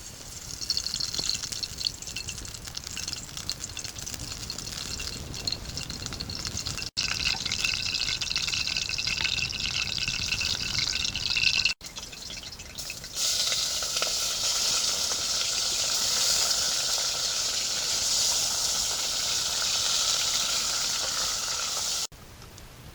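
Water pouring or running into a container in a steady rushing stream, heard in separate stretches broken by sudden cuts about seven, twelve and twenty-two seconds in.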